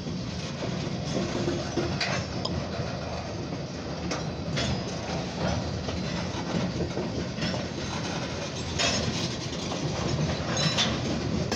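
Covered hopper cars of a freight train rolling past: a steady rumble of steel wheels on the rails, broken every second or two by sharp clacks.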